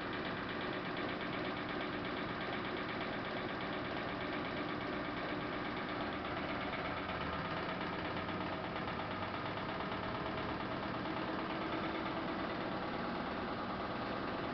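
Samsung VRT WF448 washing machine running with a steady motor hum and vibration.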